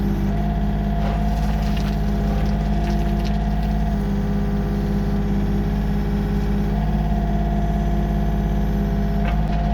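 Diesel engine of heavy machinery running steadily, with slight shifts in its tone a few times.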